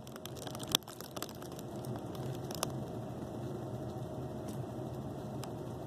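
Quiet room tone with a low steady hum, dotted with faint irregular clicks and crackles; a few sharper clicks stand out, one under a second in and one about two and a half seconds in.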